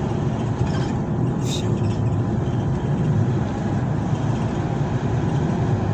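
Steady low rumble of motor vehicle traffic or a running vehicle engine, with a faint constant hum.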